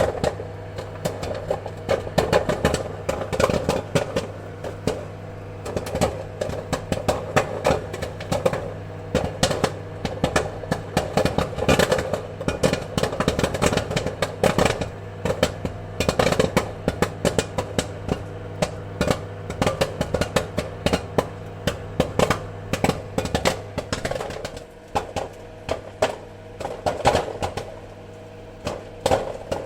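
Popcorn kernels popping in rapid, irregular pops over a steady low hum.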